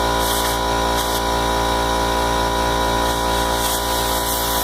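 Air compressor running steadily with an even mechanical hum, pumping up the airbag system's air tank toward 55 psi.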